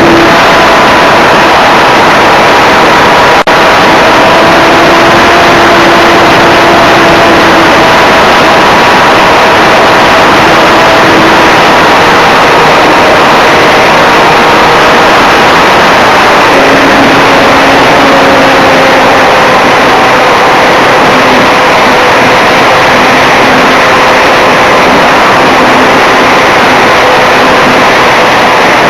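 Onboard sound of an electric RC Cessna 182 model in flight: loud, steady wind rush over the camera microphone, with the brushless motor and propeller whine underneath. The whine drops to a lower pitch a little past halfway, as the throttle is eased back.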